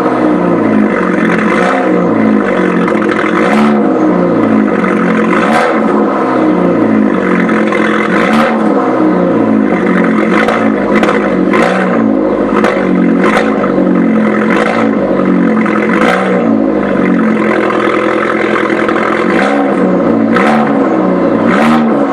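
Fiat 500 Abarth's 1.4 turbo four-cylinder running stationary after a cold start, through a Record Monza exhaust with its valve open. The engine note wavers up and down, and several short sharp sounds come through every few seconds.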